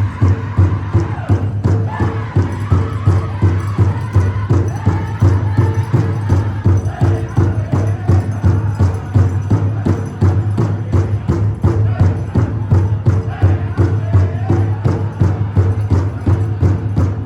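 Powwow drum group singing over a big drum struck in a fast, steady beat.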